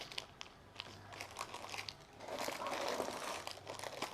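Plastic packaging crinkling and rustling with small clicks as jewellery is handled, louder in the second half.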